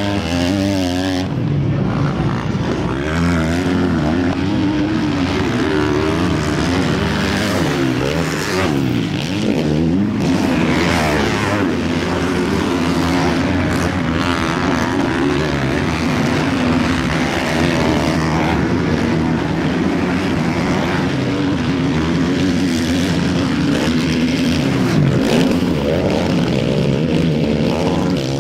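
Several 450cc four-stroke motocross bikes racing together, their engines overlapping and revving up and down as the riders accelerate, shift and back off.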